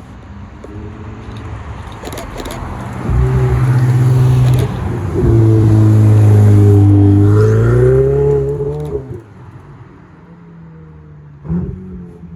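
A performance car's engine accelerating hard past, with a brief break for an upshift about five seconds in, then pulling again with climbing revs before fading away. A short sharp knock near the end.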